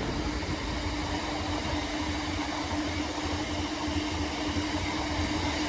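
Felixstowe–Trafford Park container freight train running through the station, a steady rumble with a constant hum.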